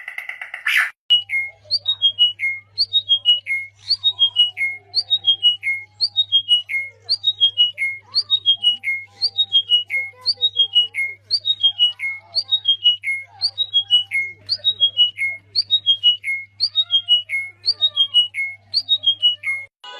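A bird calling: a short phrase of quick high notes stepping down in pitch, repeated over and over about every 0.7 seconds. It starts about a second in.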